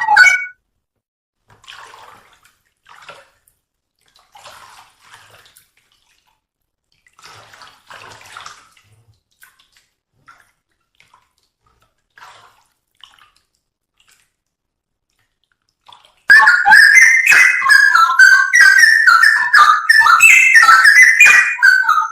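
Straw-headed bulbul (cucak rowo) song: a long pause holding only faint scattered rustling noises, then, about 16 seconds in, loud fast whistled phrases that keep tumbling and changing pitch.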